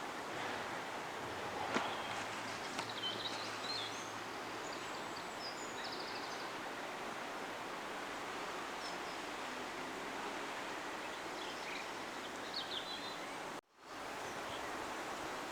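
Outdoor ambience: a steady rushing background with a few short, high bird chirps about two seconds in and again near the end. The sound cuts out completely for a moment shortly before the end.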